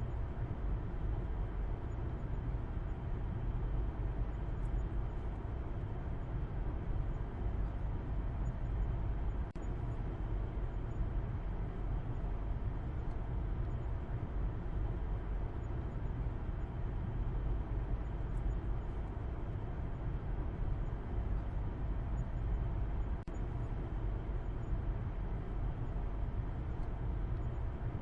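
Car driving at a steady speed: a continuous low rumble of road noise and engine hum.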